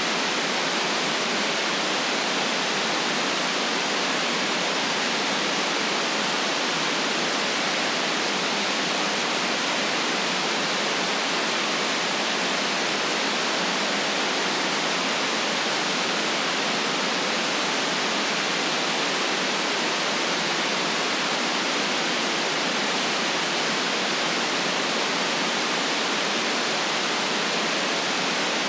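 Synthetic white noise for relaxation: a steady, unchanging hiss, cut off below about 150 Hz and above about 8 kHz.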